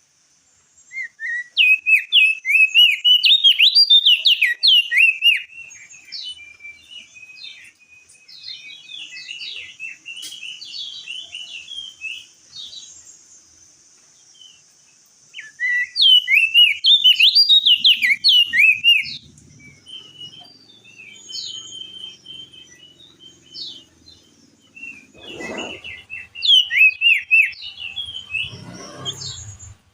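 Opior jambul (crested white-eye) singing: three loud bursts of rapid, chattering high notes about ten seconds apart, with softer twittering between them. Two short low thumps come near the end.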